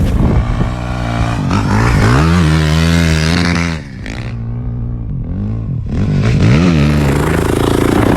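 Motocross bike engine revving: the pitch climbs and holds, the throttle is chopped shut a little before the middle, and the engine winds up again about two seconds later.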